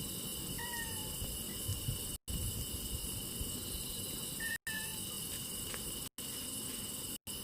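Crickets chirring steadily with a low crackle of a burning wood fire, and two short falling chirps. The sound breaks off for an instant three times.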